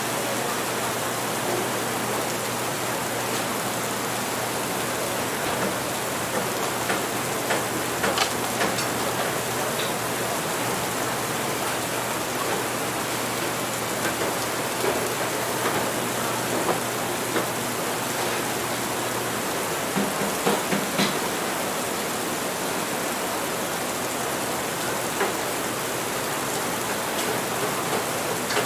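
Steady rain, an even hiss throughout, with a few short clicks scattered through it, a small cluster of them about twenty seconds in.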